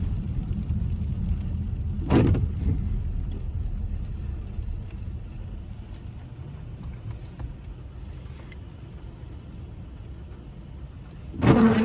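Low, steady road rumble of a moving car, fading gradually. There is a brief sharp sound about two seconds in and a louder short one near the end.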